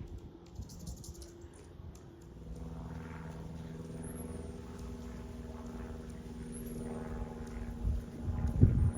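A steady engine drone, such as a passing plane or vehicle, comes in about two seconds in and holds level, with gusts of wind rumbling on the microphone near the end. A very high, thin bird chirp repeats three times, every couple of seconds.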